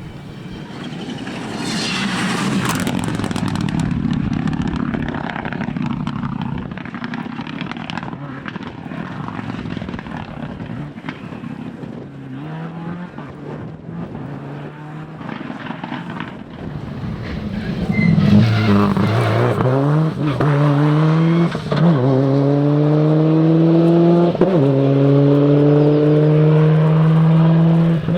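Four-wheel-drive rally cars at full throttle on a stage. One car comes through loudly a few seconds in. From about two-thirds of the way in, another accelerates hard, its engine note climbing, with short breaks at gear changes.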